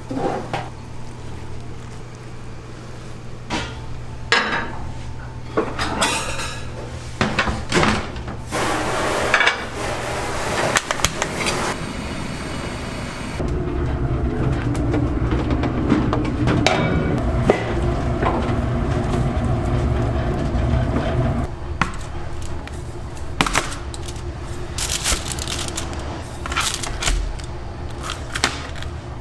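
Kitchen clatter: scattered knocks and clinks of pans and utensils over a steady low hum, with a louder low rumble from about a third of the way in to about two-thirds through.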